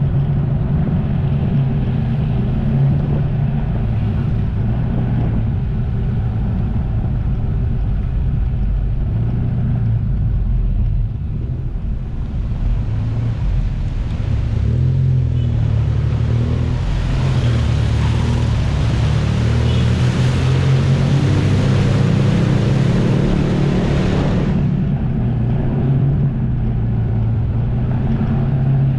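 Jet ski engine running steadily at speed, a constant low drone. A hissing rush builds from about halfway in and cuts off suddenly a few seconds before the end.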